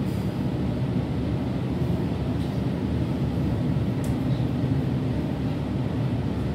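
Steady running noise of an electric suburban passenger train heard from inside the carriage by the doors: a low rumble of wheels on the rails, with a couple of faint clicks.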